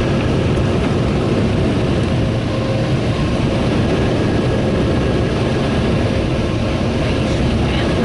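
Ryko Slimline car wash dryer blowers running at full blast, heard from inside the truck's cab as a steady roar during the timed drying cycle.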